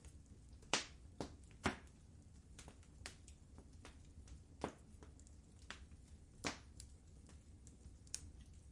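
Wood fire in a fireplace crackling: irregular sharp pops and snaps over a soft low rumble, the loudest two close together about a second in.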